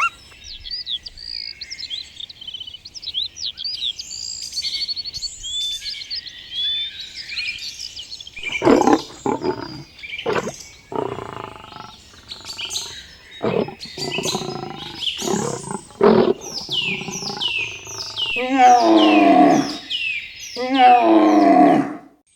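Rapid high bird chirps, then from about eight seconds in a series of loud animal calls, the last two long and wavering, cutting off sharply near the end.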